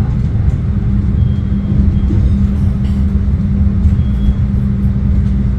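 Passenger train running along the track, heard from inside the carriage: a steady low rumble with a constant hum.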